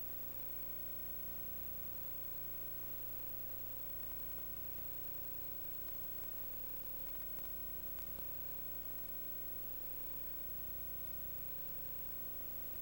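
Steady electrical hum with an even hiss, unchanging throughout, with no other sound.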